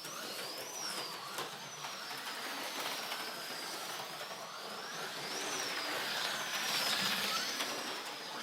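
HO-scale slot cars running laps on the track, their small electric motors whining at a high pitch that repeatedly falls and then climbs again as the cars slow and speed up, over a steady rattle of the cars in the slot.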